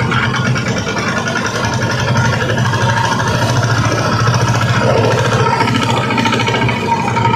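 Boat engine running steadily, a low hum with a fast, even pulse.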